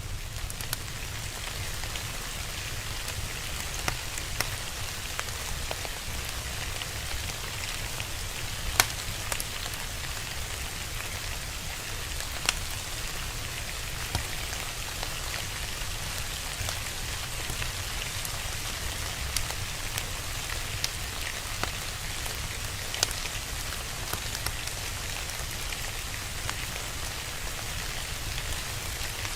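Steady rain falling, with a low rumble beneath it and a few sharp pops of a crackling fire, the loudest about nine seconds in.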